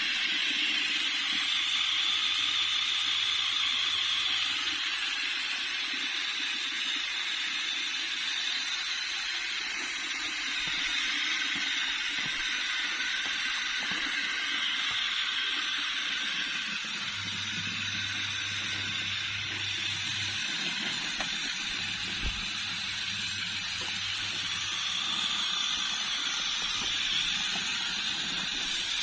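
Small electric motor and gearbox of a radio-controlled model tractor running, a steady hissing whir.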